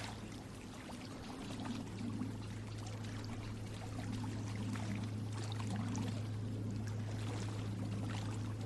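Water trickling and splashing with many small scattered drips, over a steady low hum.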